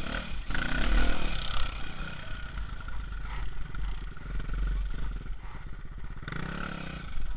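Off-road vehicle engine running, revved up briefly about a second in and again near the end, over a heavy low rumble.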